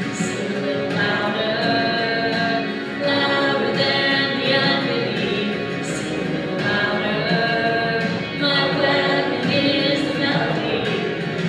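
A group of voices singing a hymn together, holding long sustained notes.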